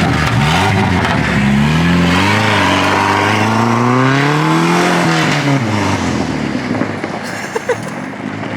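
Turbocharged Jeep engine accelerating hard over loud rushing noise. Its pitch climbs, dips once, climbs again, then falls away about halfway through and settles quieter.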